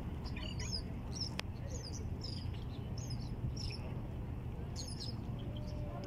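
Small birds chirping: a run of short, high chirps, two or three a second, over a steady low rumble.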